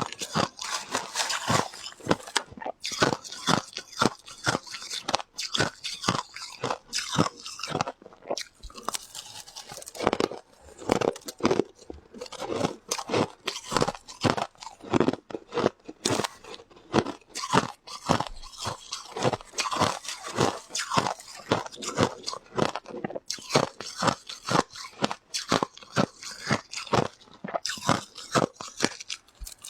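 Ice being bitten and chewed: an unbroken run of crisp crunches, a few each second.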